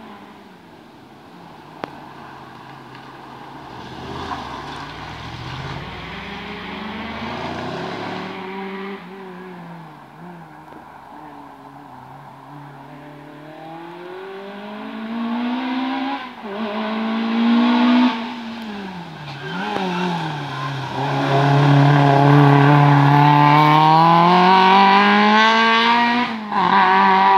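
A car engine driven hard, revving up and dropping back several times with gear changes and braking for bends, getting steadily louder as it approaches and running loud and strong near the end.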